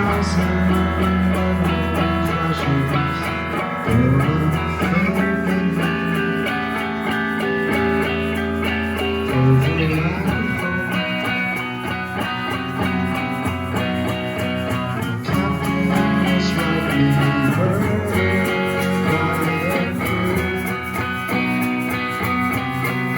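Live rock band playing an instrumental passage of a song, with guitar prominent and held notes ringing over it.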